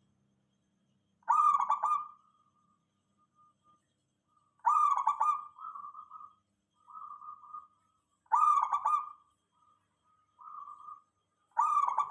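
Zebra dove cooing: four loud phrases about three and a half seconds apart, with softer, shorter coos trailing after the second and third.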